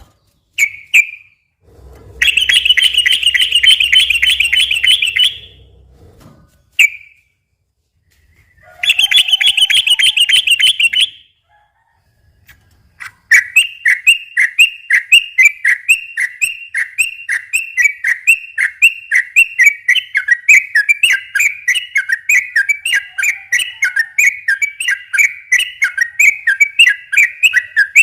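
Yellow-vented bulbul (trucukan) singing: short calls and two rapid buzzy trills of about three seconds each, then from about halfway on a long unbroken run of quick repeated notes, the long 'ropel' song.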